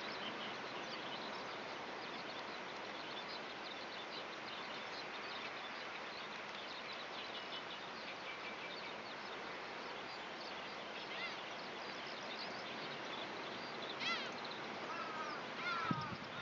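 Eurasian skylark singing faintly, a continuous high twittering over a steady outdoor hiss. Near the end a few louder, lower calls come in.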